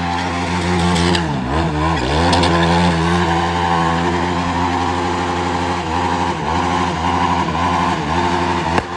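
Yamaha YFZ450 quad's single-cylinder four-stroke engine held at high revs on the rev limiter during a burnout, the revs dropping and picking back up twice about one and a half to two seconds in, with a few shorter dips later on.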